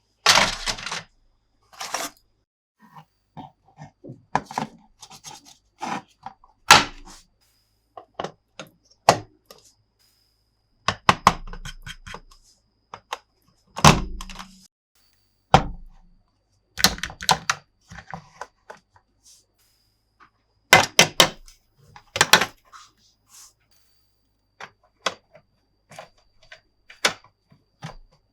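Irregular clicks, taps and thunks of hard plastic toy pieces being handled and knocked together.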